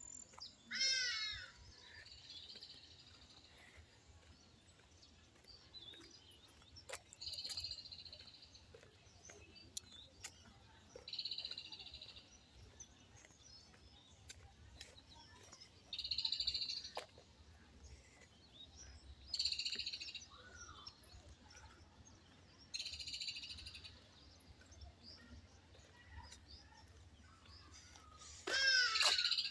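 Faint evening animal calls: a bird's quick falling chirps about a second in, then a high call about a second long repeating every three to four seconds.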